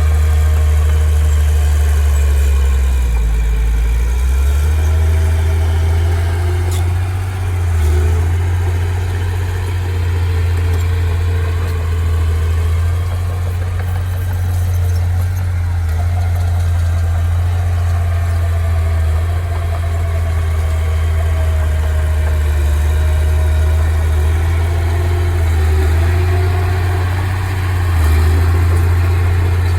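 Engine of heavy earthmoving machinery or a truck running steadily with a deep, constant hum, its pitch shifting slightly now and then.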